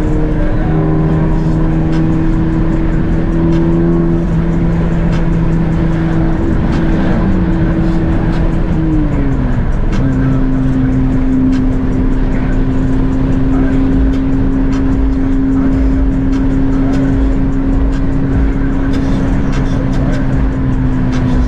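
Honda Civic Si engine running at steady revs on the highway, with road and wind noise. About nine seconds in, the engine pitch falls smoothly, then holds steady at a lower pitch.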